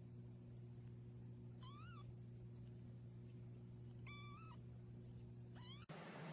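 Three faint cat meows, each under half a second, over a low steady hum.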